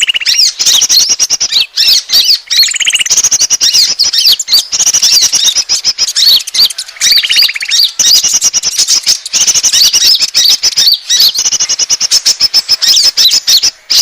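A loud, dense chorus of small birds' high chirps and whistles: a lure call for the konin bird. A buzzy trill comes back every few seconds.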